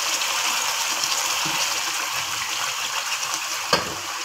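Yogurt masala with fish pieces sizzling and crackling in hot oil in a kadai, a steady hiss, with one sharp knock about three and a half seconds in.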